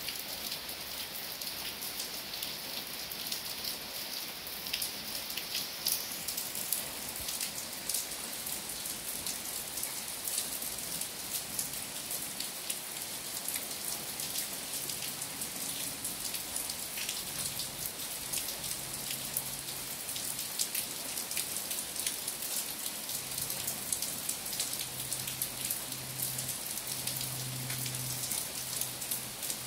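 Steady tropical rain falling on leafy trees and wet ground: a dense, even hiss with many sharper individual drop ticks.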